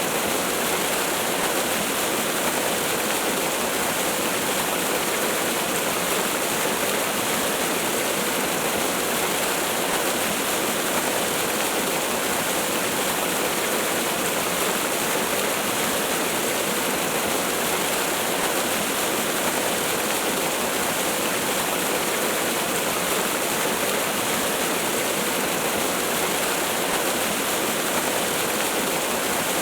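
Waterfall rushing: a steady, unbroken hiss of falling water, bright and even throughout.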